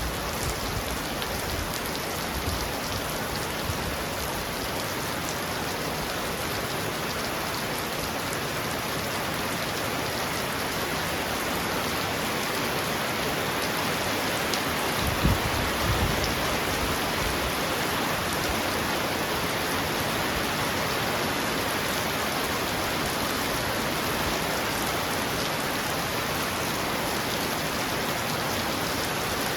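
Heavy rain pounding steadily on a roof, an even hiss. About halfway through there is a brief low thump.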